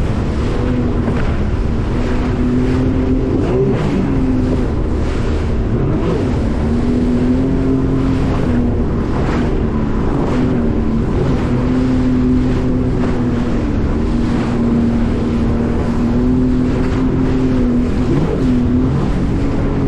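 A motorboat's engine running steadily under way, its pitch drifting slightly up and down with the throttle, with wind buffeting the microphone and water rushing past the hull.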